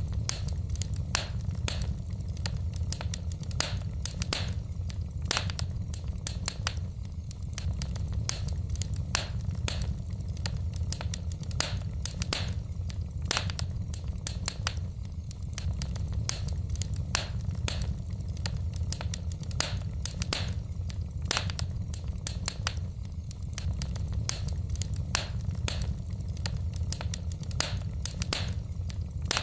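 Wood fire crackling in a fireplace: irregular sharp pops and snaps from the burning logs, several a second, over a steady low rumble of the flames.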